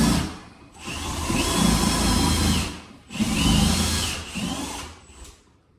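Power drill run in bursts: a short one at the start, then two longer runs of about two seconds, each whining up to speed and winding down as the trigger is released.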